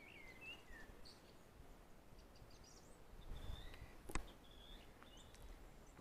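Faint birdsong: a few gliding chirps at the start, then short high whistles in the middle, over a low rumble of wind or handling noise. A single sharp click about four seconds in is the loudest sound.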